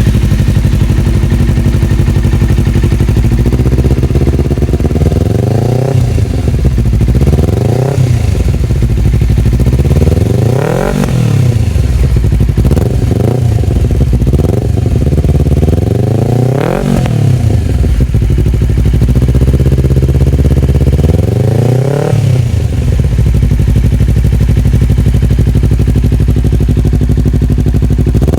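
Honda CBR250RR engine through an Akrapovic slip-on exhaust, idling and then revved repeatedly with quick throttle blips that rise and fall back to idle, about eight times. It settles back to a steady idle for the last several seconds.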